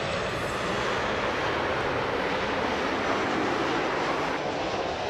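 Jet airliner arriving to land, its engines a steady rushing noise.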